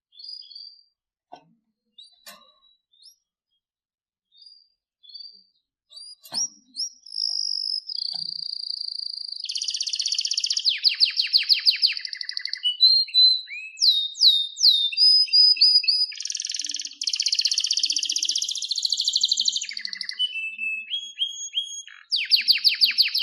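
Canary singing: a few short scattered notes at first, then from about six seconds in a continuous song of fast trills and rolls broken by quick downward-sliding whistles.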